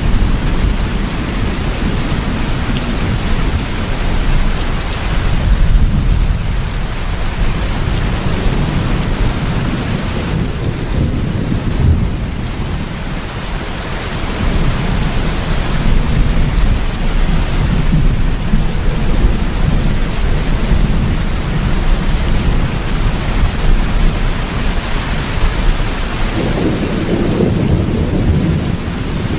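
Steady heavy rain with low rolling thunder rumbling underneath, swelling louder now and then.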